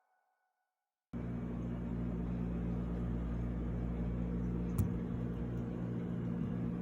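A steady low mechanical hum cuts in suddenly about a second in and holds steady, with one sharp click a little before five seconds in.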